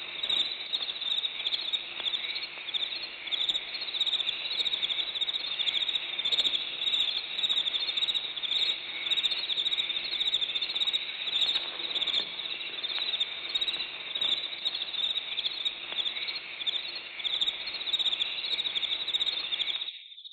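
Sound-effects recording of a dense chorus of crickets chirping steadily and high-pitched, cutting off suddenly near the end.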